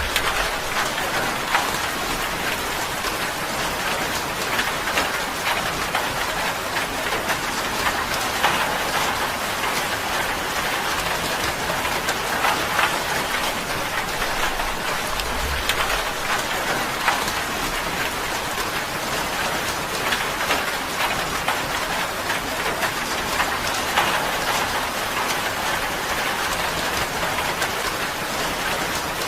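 Steady rain drumming on a tin roof, a dense continuous patter of drops on thin metal with scattered sharper hits.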